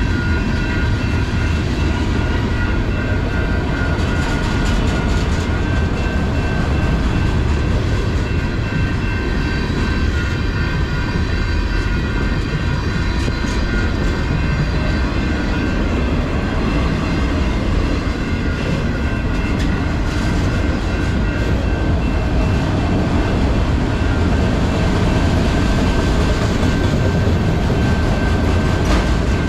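Freight train cars rolling steadily past at a railroad crossing, a continuous heavy rumble with a few steady high ringing tones over it.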